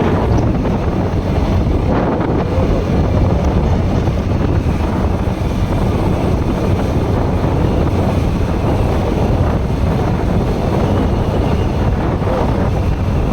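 Steady wind rushing over the microphone of a moving motorcycle, with the bike's engine, a Bajaj Pulsar NS160 single-cylinder, running at a steady speed underneath.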